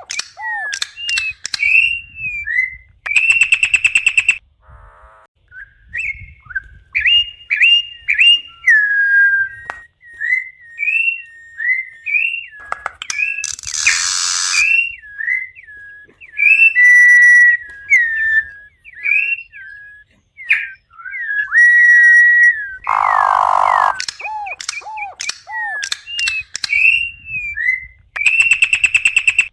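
Campo troupial (corrupião) singing: repeated loud, clear whistled phrases of gliding notes, broken now and then by short harsh, raspy notes.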